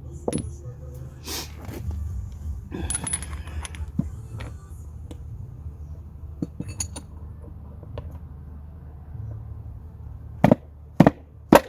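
Small metal parts clinking and tools handled while a diesel injector is taken apart on the bench, with three loud sharp knocks near the end.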